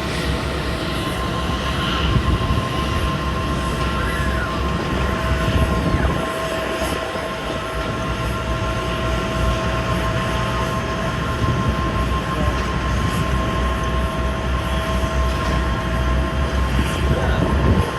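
Jet airliner engines running with a steady whine over a low rumble.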